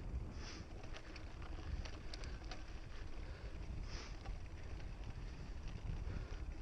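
Wind buffeting the camera microphone over the rumble and light rattling ticks of a mountain bike riding a dirt trail, with a short high chirp twice.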